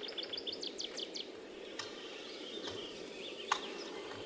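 Small birds chirping: a quick run of repeated notes in the first second, then scattered warbled calls, over a steady outdoor background hum, with a few faint clicks.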